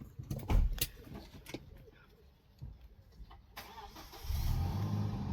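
A few sharp clicks, then about four seconds in a vehicle engine starts and settles into a steady low running.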